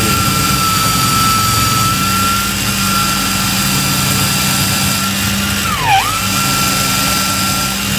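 Power drill spinning a wire-stripping bit, a steady high whine from its motor. About six seconds in the pitch dips briefly as the bit takes the load of stripping the Romex cable's insulation, then climbs back to full speed.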